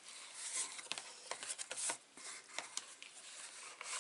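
Faint rustles, soft scrapes and scattered small clicks of card stock being handled and pressed down.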